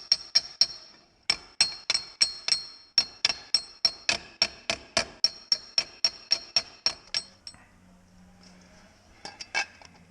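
Rapid hammer blows on a stamped-steel transfer case pan laid on a steel railroad-tie anvil, about four ringing metallic strikes a second, with a short pause soon after the start. The hammering stops about seven seconds in, and a few light metal clinks follow near the end. The pan is being beaten flat because its edges were pulled out of true by overtightened bolts.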